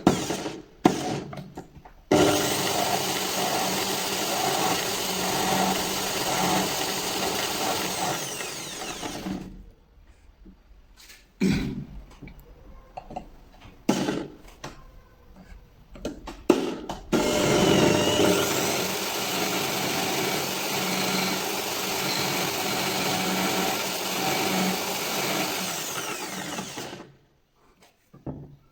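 Electric drill running in two long spells, spinning the starter motor's armature while its worn commutator is filed true, with short knocks and clicks of handling in between.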